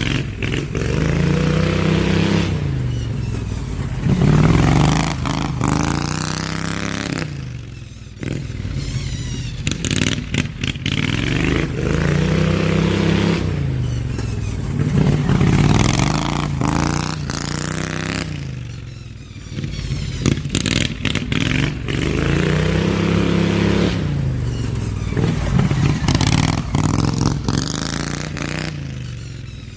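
Slightly modified Briggs & Stratton V-twin engine of a hot-rodded Craftsman LT2000 riding mower, its exhaust note rising and falling over and over as it accelerates and lets off. It grows louder and quieter in turn as it circles.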